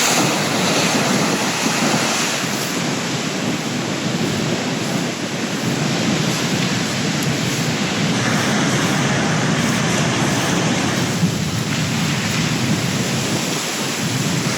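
Rough sea after a storm: waves crashing in a continuous rush, with wind buffeting the microphone.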